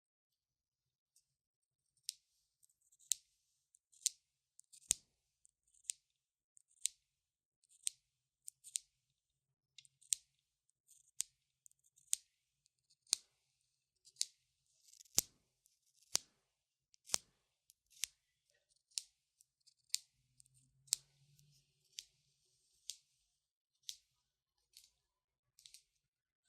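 Long natural fingernails clicking sharply, about once a second, with light scratching between the clicks.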